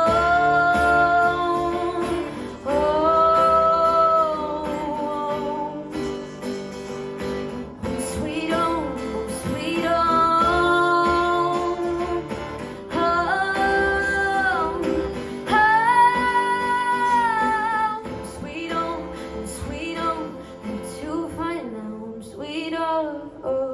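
Live female vocal holding long wordless notes over guitar accompaniment, the closing bars of a slow song, dying away near the end.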